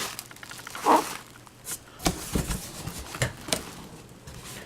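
Loose diecast model cars being lifted out of a cardboard box: scattered light clicks and knocks, with a brief rustle about a second in.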